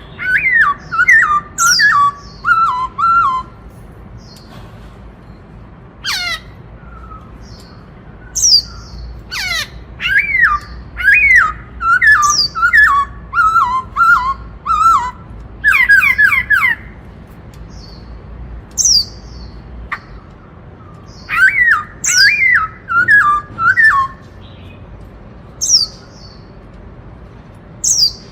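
Black-throated laughingthrush singing: loud phrases of clear whistled notes that arch and fall, several runs separated by pauses, with short thin high calls in between.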